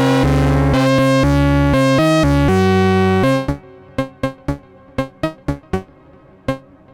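Synthesizer music from a Eurorack modular rig: sustained, shifting chords that stop abruptly about three and a half seconds in. A run of short, sharp percussive hits follows on an even beat, the last about six and a half seconds in, over a faint fading tail.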